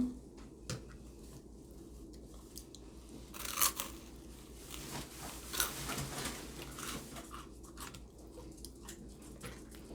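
A person chewing and eating close to the microphone: soft mouth sounds with scattered clicks, a little louder around the middle.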